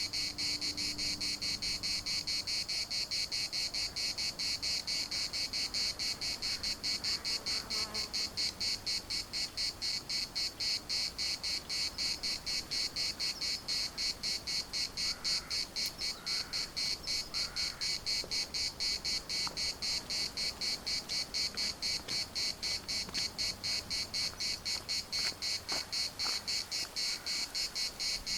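A chorus of cicadas singing, a loud, high-pitched buzz that pulses rapidly and evenly without a break.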